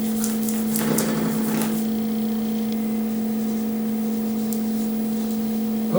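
A steady, even machine hum with a low pitched tone. About a second in there is a brief soft rustle.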